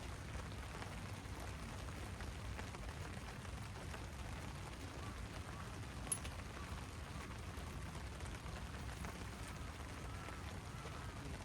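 Steady rain falling, with one sharp click about six seconds in.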